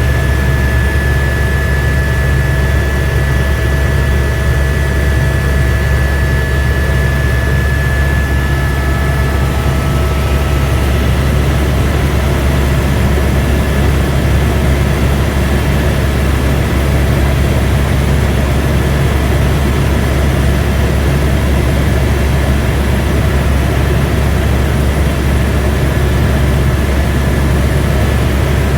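Airbus AS350 B2 helicopter heard from inside the cabin: a loud, steady drone of the main rotor and turbine engine, with a thin high whine that fades out about ten seconds in.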